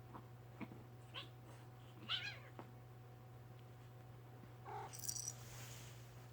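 A cat giving several short, high mews, the loudest about two seconds in, then a brief noisy burst near the end.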